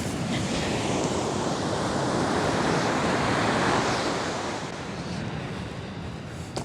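Pacific surf washing onto the beach: a steady rush that swells a little past the middle and then eases off.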